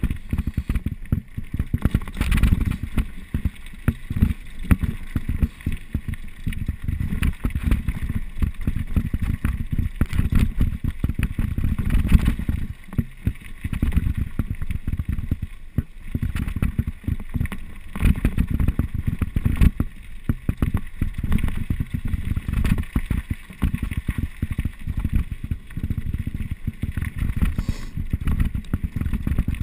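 Mountain bike clattering and rattling over a rough trail on a downhill run, with dense irregular knocks over a low rumble.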